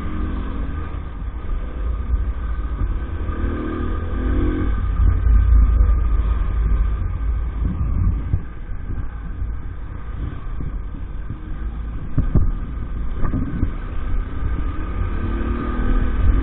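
EAYS Pro 50cc's small engine running under way, its pitch rising and falling a little, with heavy wind rumble on the microphone.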